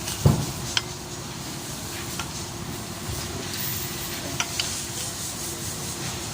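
Hand work on a car engine's timing chain parts: a dull knock about a quarter second in, then a few light clicks of tools and parts being handled, with rubbing and scraping over steady background noise.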